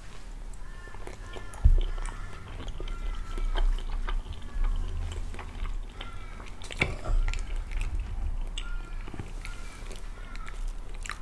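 A person chewing a mouthful of soft pancake close to the microphone, with wet mouth clicks and smacks scattered through it.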